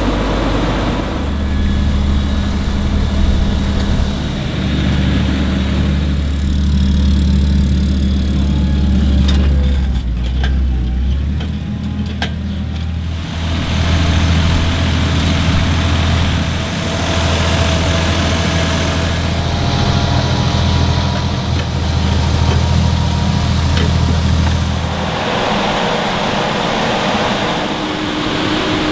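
Diesel engines of farm machinery running with a steady low drone. The engine sound changes abruptly about 13 seconds in and again near the end.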